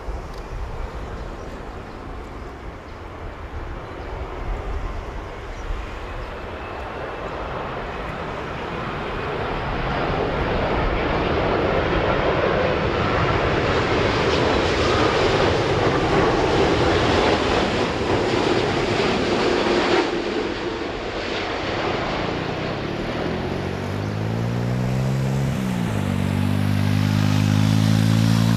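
Boeing 787-9 airliner's jet engines on final approach, passing low overhead: a broad rushing noise builds over about ten seconds, stays loud, then its higher part falls away abruptly about twenty seconds in. Near the end a road vehicle's engine revs up, dips at a gear change and revs up again.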